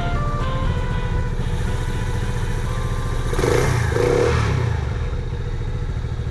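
Small motorcycle engine of a roofed three-wheel trike running with a steady low pulse, swelling briefly a little past halfway as it is revved.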